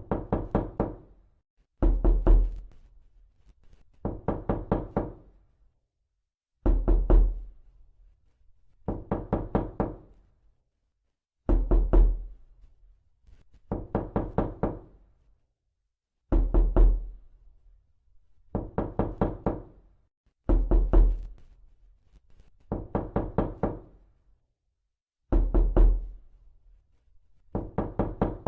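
Repeated knocking in quick bursts of about three to five knocks, one burst roughly every two seconds. Each knock has a deep thud and a short ring.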